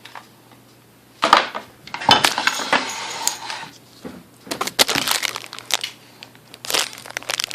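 Small hard parts, the mixer's gears and shafts, clinking and rattling as they are picked up and handled, in four separate spells of clatter.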